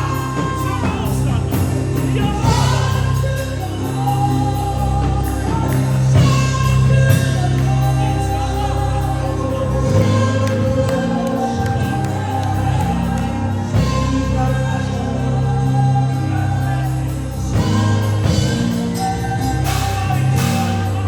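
Live gospel worship music: singers holding long, sliding notes over sustained keyboard chords and bass.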